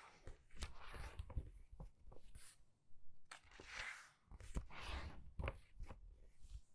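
Book pages being turned quickly by hand: about three soft paper swishes, each with small taps and rustles of the paper.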